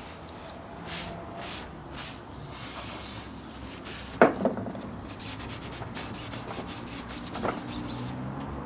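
Repeated hand rubbing strokes on metal as rust is scrubbed off parts of an old benchtop lathe, with a sharp knock about four seconds in and a smaller one near the end.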